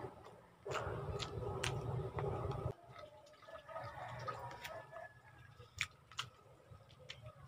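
Close-up eating sounds of someone chewing milkfish and rice eaten by hand: scattered wet mouth clicks and smacks. A louder stretch of low rumbling noise in the first few seconds cuts off suddenly.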